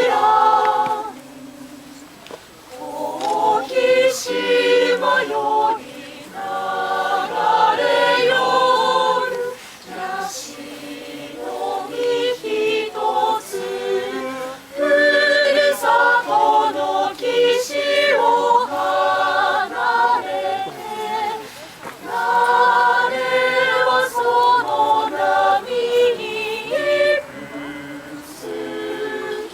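A choir singing a melody together in phrases, with short breaks between the phrases.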